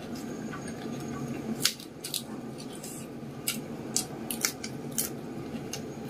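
Close-miked chewing of crisp raw vegetables, with a series of short, sharp crunches.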